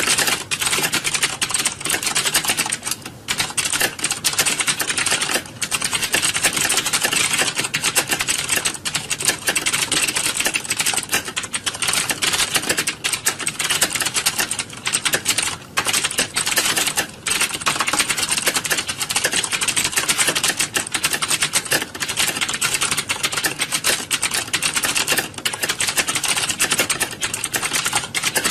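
Many computer keyboards being typed on at once, a dense continuous clatter of overlapping key clicks with only brief lulls.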